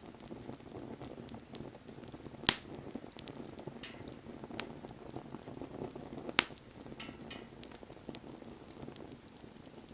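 Wood bonfire crackling: a low steady rush of burning, with scattered small ticks and sharp pops, the loudest about two and a half seconds in and again a little past six seconds.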